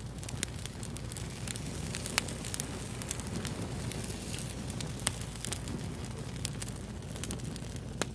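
Wood fire crackling: frequent sharp pops and snaps over a steady low rumble, with two louder pops, about two and five seconds in.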